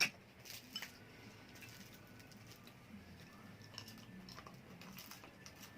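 Close-up eating sounds of small lobster or shrimp being eaten by hand: chewing and soft clicks of shell, with a sharp crack right at the start and a few more clicks just after.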